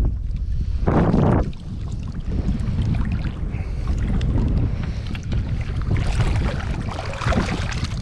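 Strong wind buffeting the microphone in uneven gusts, a deep constant rumble with a louder gust about a second in.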